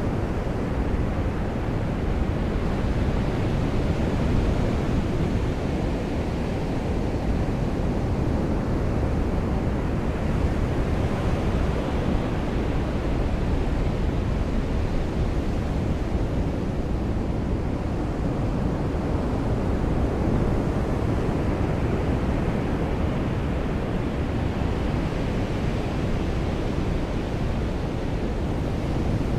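Ocean surf washing onto a beach: a steady low rush of noise that swells and eases slowly.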